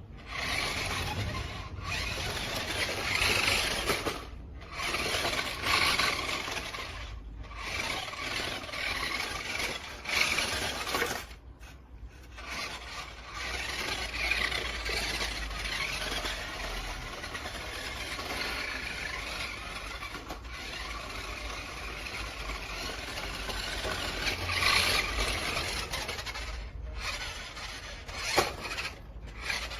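Remote-control monster truck driving: the electric motor whirs and the tyres scrape and squeal, with several brief pauses.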